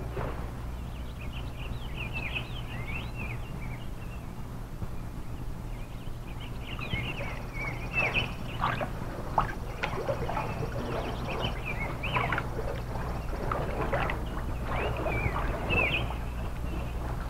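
Birds chirping and singing in short, quickly rising and falling calls, busier in the second half, over a steady low hum.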